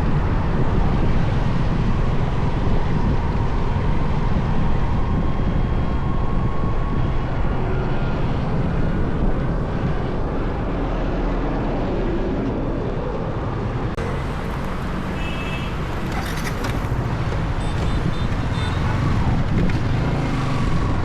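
Steady rumble of a motorbike ride through city traffic: engine and road noise with passing vehicles. A few short high tones come in about two-thirds of the way through.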